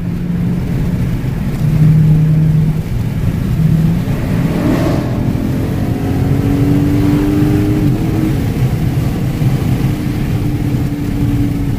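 Dodge Charger Daytona 392's 6.4-litre HEMI V8 and road noise, heard from inside the cabin at highway speed. A low steady drone runs throughout; from about five to eight seconds in the engine note climbs slowly, then holds steady.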